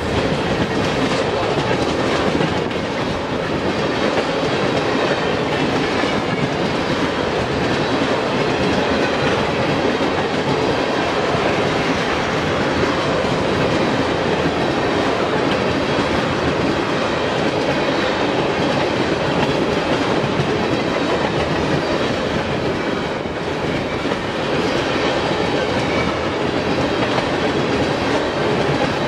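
Freight train of tank cars rolling past close by: steady rolling noise of steel wheels on the rails.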